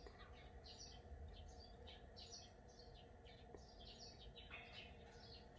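Faint chirping of small birds: many short, high calls repeating throughout, over a low steady background rumble.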